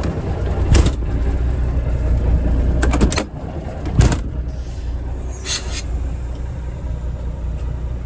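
Old truck's engine running with a steady low rumble, with several sharp clunks and knocks: one about a second in, a cluster around three seconds, another at four and one at about five and a half seconds.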